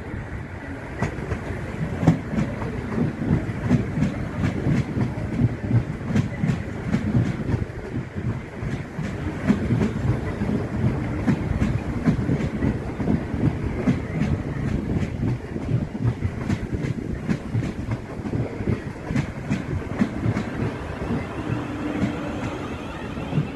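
South Western Railway Class 450 Desiro electric multiple unit running past beneath, a steady rumble of its running gear with rapid clicking of wheels over rail joints.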